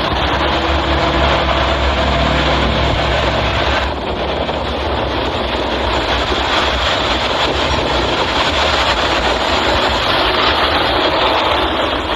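Military truck on the move: a steady low engine drone under loud rushing road and wind noise. The engine's low tone weakens about four seconds in while the rushing noise carries on.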